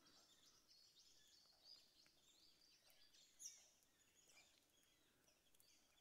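Faint birdsong over near silence: many short chirps and whistles from several birds, one call a little louder about three and a half seconds in.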